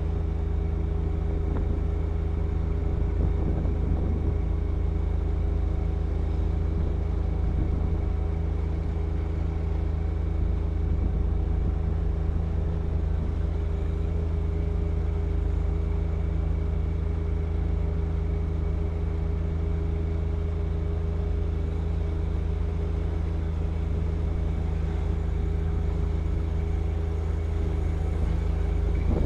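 John Deere 1025R sub-compact tractor's three-cylinder diesel running steadily at a constant speed, driving its snow blower.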